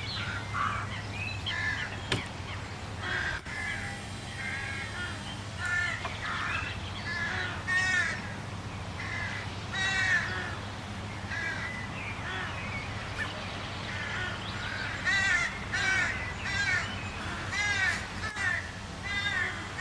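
Birds giving harsh cawing calls, many in quick succession, over a steady low hum.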